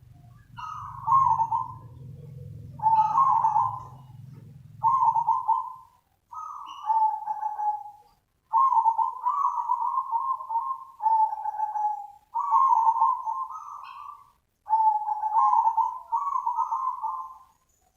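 Zebra dove (perkutut) calling: a run of short, rippling cooing phrases repeated every one to two seconds.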